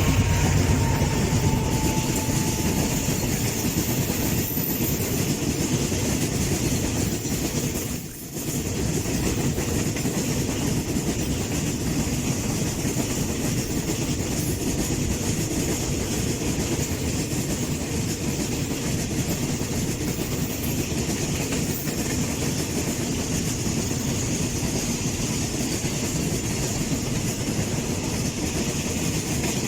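Train running along the track, with a steady rumble of wheels clattering over the rail joints and a brief dip about eight seconds in.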